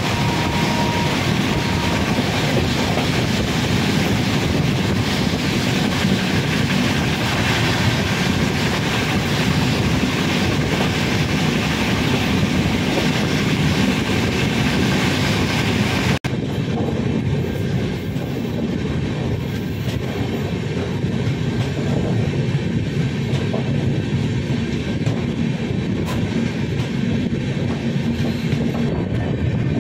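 Passenger train running along the track, a steady rumble of wheels on rails. About sixteen seconds in the sound changes abruptly: the high hiss drops away and the rumble turns duller.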